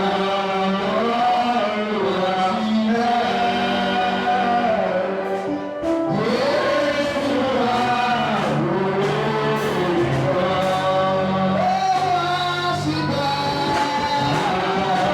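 Voices singing a gospel chorus in long, held phrases that rise and fall.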